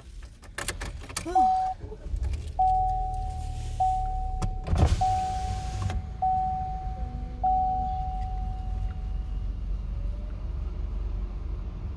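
A car's warning chime: one steady tone struck about six times, roughly every second and a quarter, each ring held until the next, fading out near the end. Underneath is a low steady rumble from the idling car, with a brief hiss around the middle.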